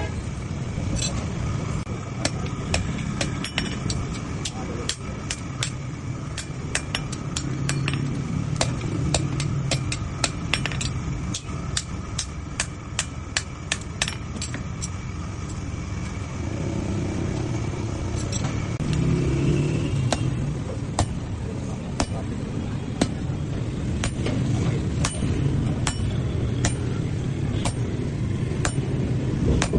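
Hammer striking metal on an anvil in forging, sharp strikes two or three a second at first, sparser and more spaced in the second half, over a steady low rumble.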